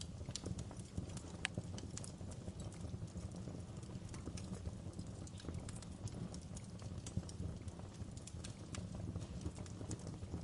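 Wood fire in a fireplace crackling: irregular sharp pops and snaps, several a second, over a low steady rumble of the flames, with one louder pop about a second and a half in.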